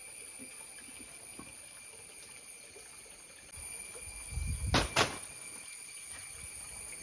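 A steady, high-pitched chorus of insects, crickets or cicadas, fills the plantation. A little past the middle a low rumble comes up, and two sharp knocks sound close together about five seconds in.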